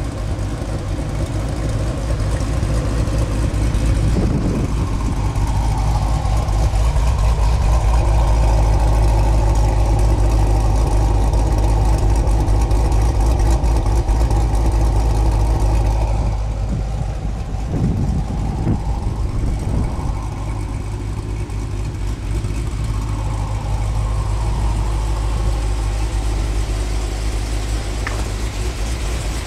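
Dodge Challenger SRT-8's Hemi V8, with ported heads and a custom cam, idling steadily through stepped long-tube headers and a Corsa cat-back exhaust. It is a continuous low exhaust note that is loudest through the middle stretch.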